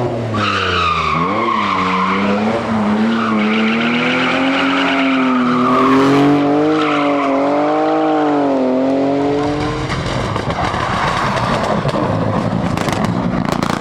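Rally car engine at high revs, its pitch rising and falling, with tyres skidding. After about ten seconds the engine note gives way to a steady rushing noise.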